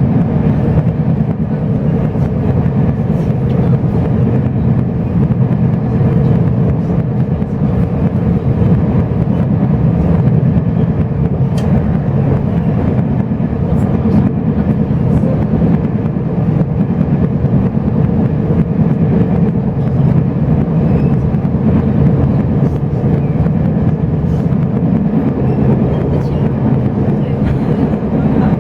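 Steady rumble of a moving locomotive-hauled Chu-Kuang express passenger train, heard from inside the carriage, with a few faint clicks over the running noise.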